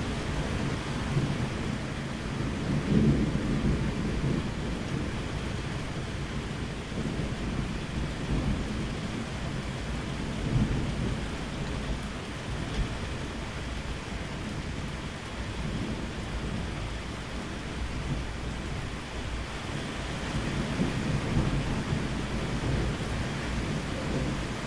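Steady rain with rolling thunder: low rumbles swell up about three seconds in, again around ten seconds and once more near the end, over a constant hiss of rainfall.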